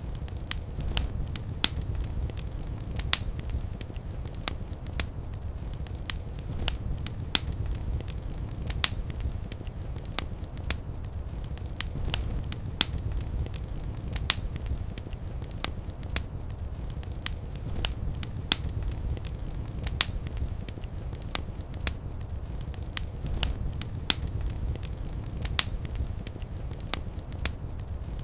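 Wood fire burning in a fireplace: a steady low rumble of flames with sharp crackles and pops at irregular intervals, several a second.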